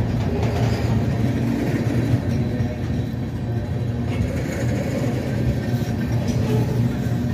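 Train running by with a steady low rumble.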